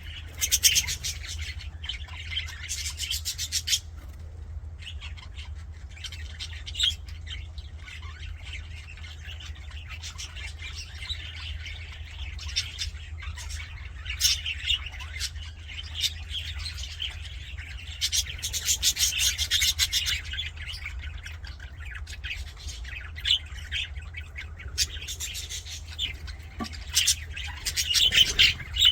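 Budgerigars chattering and warbling in quick runs of chirps and squawks, swelling loudest near the start, about two-thirds of the way through and near the end, over a steady low hum.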